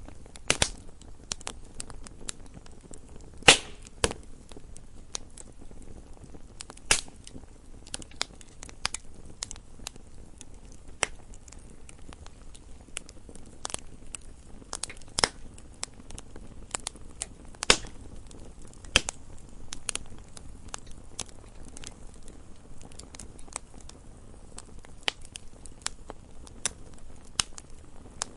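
Campfire crackling: irregular wood pops and snaps over a soft low rumble of the burning fire, with a sharper pop about three and a half seconds in.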